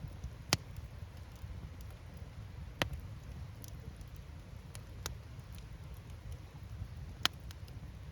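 Firewood burning in an open campfire, crackling: four sharp pops of bursting wood stand out, with fainter ticks between them, over a low steady rumble.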